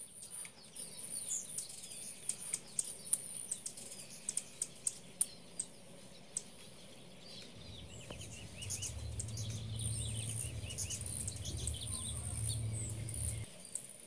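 Small songbirds chirping and calling, with a run of sharp clicks in the first half and a low rumble through most of the second half.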